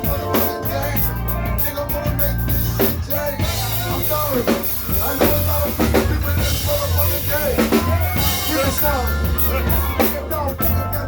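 Live band music with a drum kit beat of bass drum and snare hits over a held bass line.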